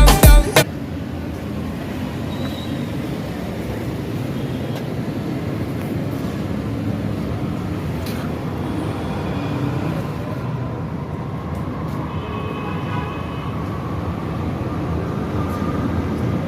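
Music cuts off in the first second, then a steady, noisy rumble with no clear rhythm and a few faint high tones about twelve seconds in.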